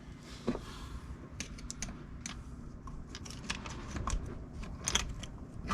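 Irregular small metallic clicks and clinks of steel differential case bolts being handled and set down one by one.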